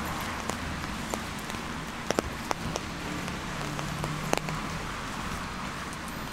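Steady rain falling, an even hiss, with scattered sharp taps of larger drops: several close together about two seconds in and a single stronger one near four and a half seconds.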